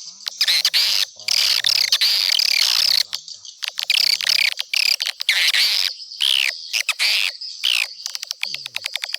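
Swiftlets twittering in repeated bursts of high, sweeping chirps, then a fast run of short clicks near the end.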